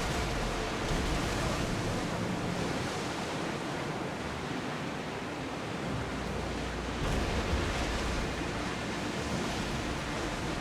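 Sea waves and wind: a steady rush of water noise with a low rumble that swells slightly about seven seconds in.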